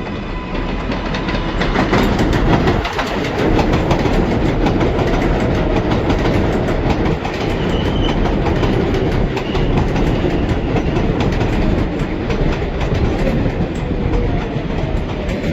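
New York subway train on the elevated 7 line running through the station, a loud steady rumble with rapid clatter of steel wheels over the rail joints. It builds up over the first two seconds, then holds.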